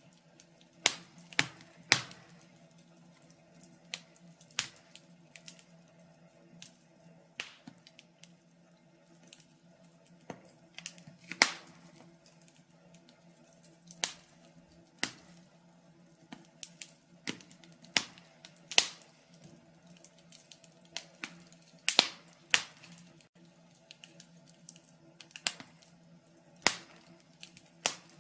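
Wood fire crackling, with irregular sharp pops and snaps of uneven loudness, over a faint steady low hum.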